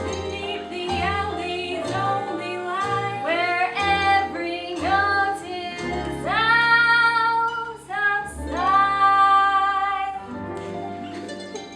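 Voices singing a show tune over instrumental accompaniment, with two long held notes in the second half.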